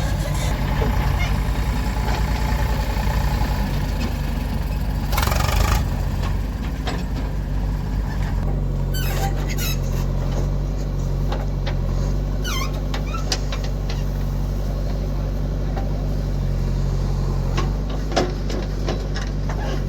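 Diesel engine of a JCB 3DX backhoe loader running steadily while it works, with a short burst of hiss about five seconds in and a few brief squeaks around the middle.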